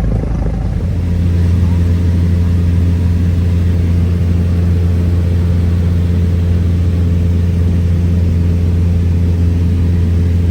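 Cessna 172's piston engine and propeller droning steadily as heard inside the cabin, with a slight rise in level about a second in.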